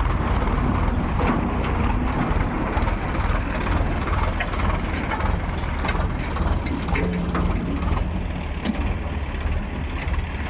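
Diesel engines of heavy farm and earthmoving machinery, a backhoe loader and tractors, running steadily with a deep low drone, with scattered short knocks and clanks.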